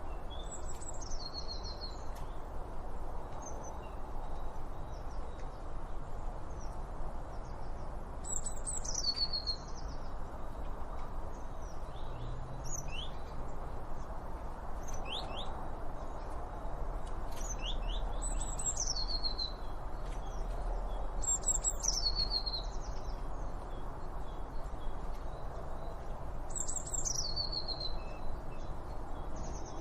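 Songbirds singing: one bird repeats a short phrase that slides down from high to lower pitch, about five times, with quick series of short chirps in between, over a steady low background hiss.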